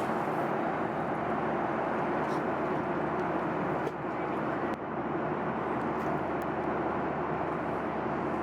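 Steady rushing cabin noise inside a Boeing 737-800 in flight, from its jet engines and the airflow over the fuselage, with two faint clicks near the middle.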